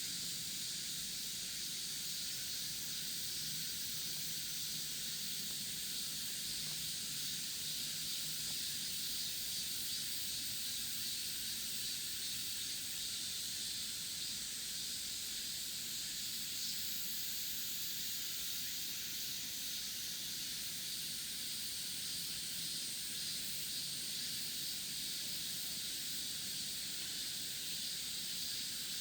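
Steady, unbroken high-pitched chorus of summer insects, a continuous shrill hiss with no pauses.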